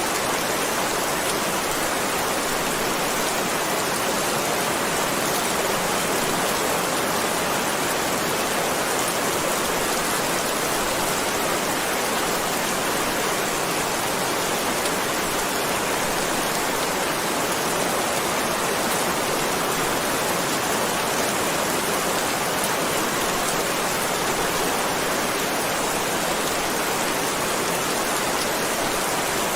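Heavy rain falling in a steady, dense hiss, with no thunder or single drops standing out.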